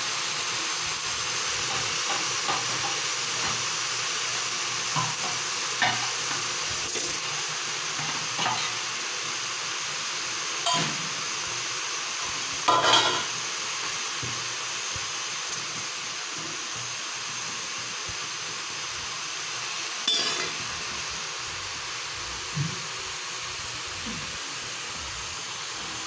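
Leafy greens frying in a steel wok make a steady sizzling hiss. A few sharp clinks and scrapes of a utensil against the pan come through it, the loudest about 13 seconds in.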